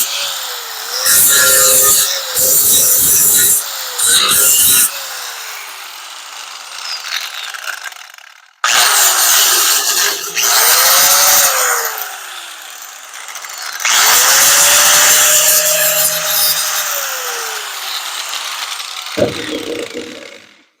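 Electric angle grinder grinding the sheet metal of a pickup bed in repeated passes: three short bursts, then two more with a longer one near the middle, the motor's whine sliding down in pitch as it spins down between passes.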